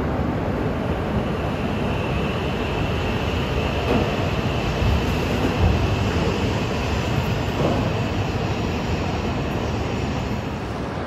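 E6 series Komachi Shinkansen pulling away from the platform after uncoupling from the Hayabusa, a steady rumble of the moving train with a faint high whine over it.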